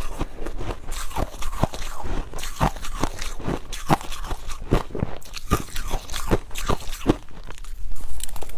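Ice being bitten and chewed close up: sharp, irregular crunches, about three a second.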